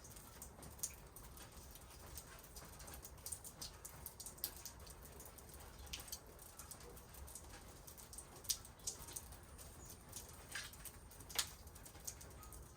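Rain dripping in a backyard: scattered, irregular taps of falling drops over a faint low rumble.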